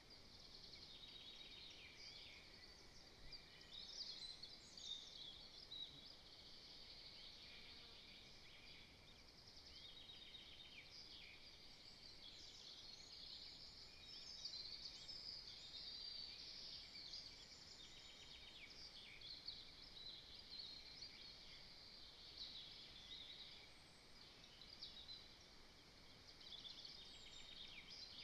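Faint chorus of small birds chirping and singing continuously, many short high calls and trills overlapping.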